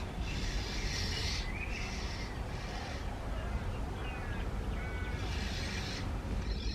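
Magpie-larks calling: several harsh, noisy calls each about a second long, with a few faint short whistled notes between them. A steady low rumble runs underneath.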